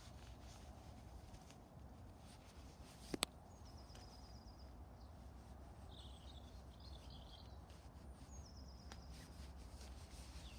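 Quiet outdoor ambience: a low steady rumble with a few faint bird chirps, and a single sharp click about three seconds in.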